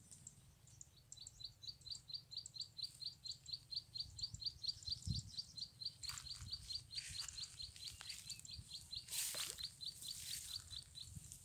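A small bird giving a fast, even series of high chirps, about four or five a second, from about a second in until near the end. Leaves rustle in short bursts in the second half.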